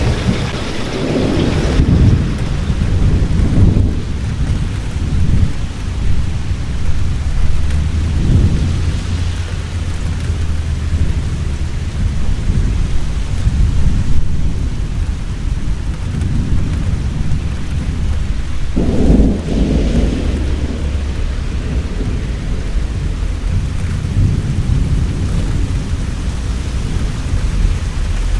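Heavy rain falling steadily with thunder rumbling, low rolls swelling and fading over the rain; one clap of thunder breaks in about two-thirds of the way through.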